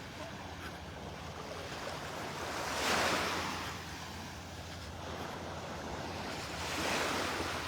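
Gulf of Mexico surf washing onto the beach: waves break and wash up twice, swelling about three seconds in and again near the end.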